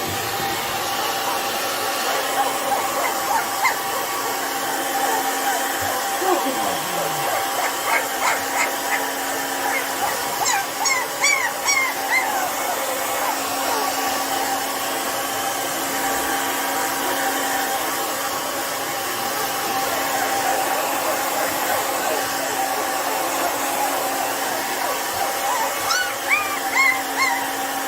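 Handheld hair dryer on its warm setting, running steadily with a constant motor hum. A Bernese Mountain Dog puppy gives clusters of short, high whimpers about a third of the way in and again near the end.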